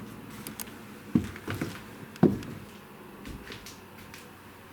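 Footsteps climbing stairs: two heavier thumps about a second apart, with lighter knocks and creaks between them.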